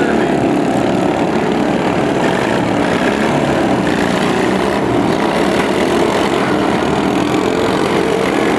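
Several lawn tractor engines running together at a steady, loud level.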